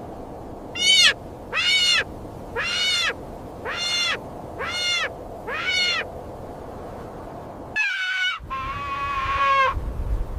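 An animal calling six times in a steady series, each call a short note that rises and falls in pitch. Near the end come two different, more level calls.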